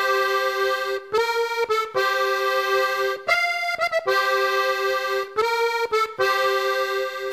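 Accordion playing a run of held chords, each lasting about a second, with short breaks between them.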